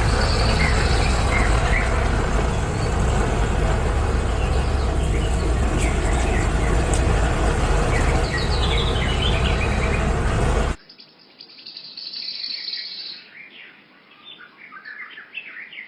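Small birds chirping and trilling throughout. For the first eleven seconds they sit over a loud, steady rushing noise with a deep rumble, which cuts off abruptly.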